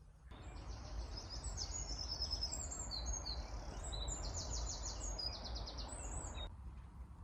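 Small songbirds singing rapid high trills and chirps over a steady outdoor hiss; the sound starts abruptly just after the start and cuts off abruptly near the end.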